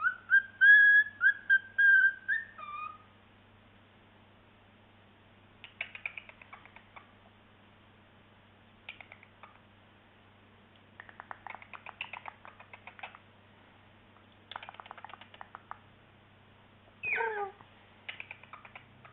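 Cockatiel whistling a quick run of short, clear notes, then chattering softly in scratchy bursts, ending with a falling call.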